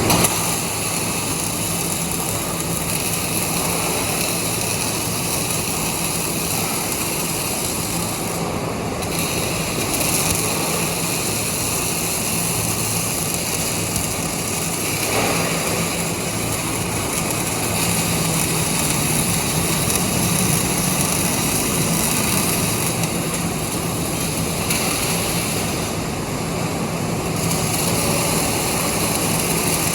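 Steady machine noise with a low hum underneath, the tone shifting briefly a couple of times.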